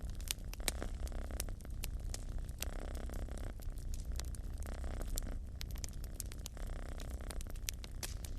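Wood fire crackling with many sharp pops, under a cat's steady purring that swells and fades with its breathing about every two seconds.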